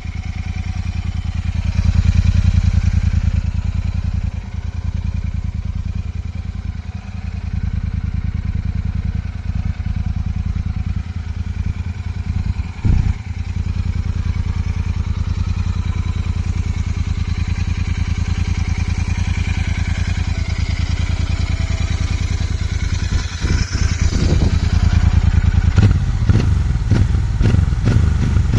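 Royal Enfield 650 parallel-twin motorcycle exhaust idling steadily, with a few quick throttle blips in the last few seconds.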